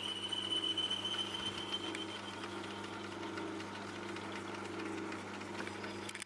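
Myford S7 lathe running steadily while a boring bar cuts out a phosphor bronze bush: a steady motor hum with a pulsing rumble. A faint high tone fades away about two seconds in.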